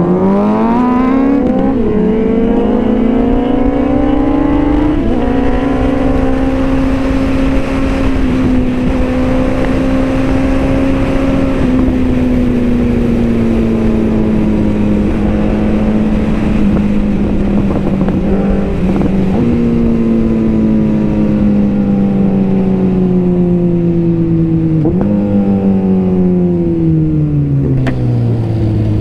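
A superbike engine heard up close while riding. It accelerates through two gear changes in the first five seconds and holds a steady cruise. It then slows, the revs jumping up at two downshifts, and winds down near the end.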